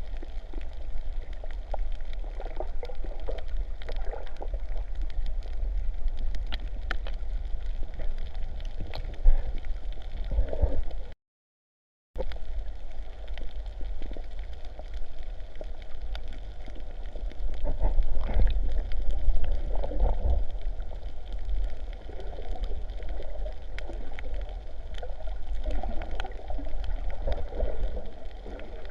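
Sea water sloshing and gurgling close to the microphone over a steady low rumble, the sound cutting out completely for about a second midway.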